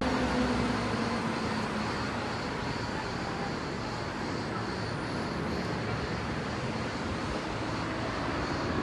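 Steady outdoor rumble and hiss with a faint distant engine-like drone.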